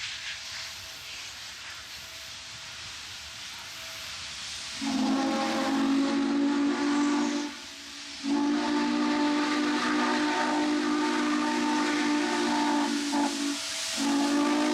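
Steam locomotive whistle, likely Norfolk & Western 611's, blowing long chime blasts of several steady tones together, over a hiss of steam. The hiss alone comes first; the whistle starts about five seconds in, stops briefly before eight seconds, sounds again longer, and a third blast starts near the end.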